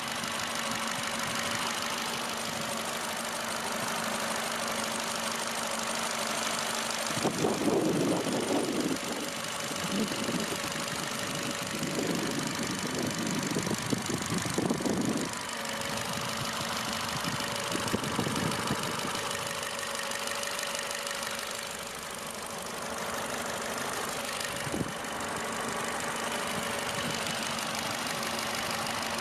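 Ford Fiesta Mk7 1.25 four-cylinder petrol engine idling steadily, with an even hum that does not change in pitch. Its sound grows louder and rougher a few times through the middle.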